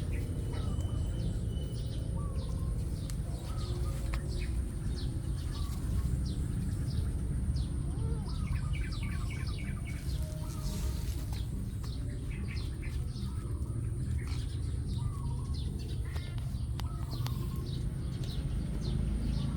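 Small birds chirping outdoors: short high chirps scattered throughout, with a quick run of chirps about eight seconds in, over a steady low rumble.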